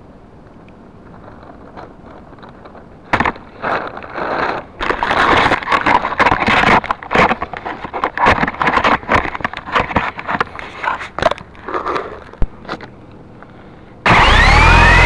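Irregular scraping and crackling noises close to the microphone on the Syma S033G coaxial R/C helicopter, in bursts for several seconds. Near the end, the helicopter's electric rotor motors start abruptly with a loud whine that rises in pitch and then holds steady.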